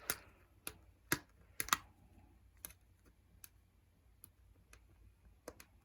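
Irregular light clicks and taps of hard plastic parts being handled, about a dozen, the loudest in the first two seconds and sparser after.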